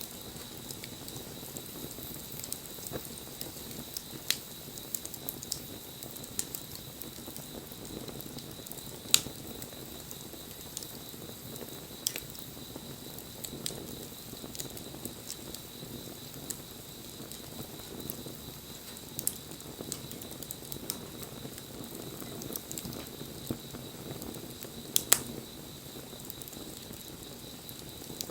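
Wood fire burning: a steady hiss of flames with frequent small crackles and pops, and a few louder sharp snaps spread through.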